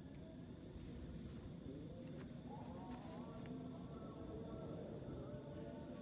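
Crickets chirping in a steady, evenly repeating rhythm, with a second insect trilling in short bursts, over a faint low rumble. Faint wavering tones come in about two seconds in.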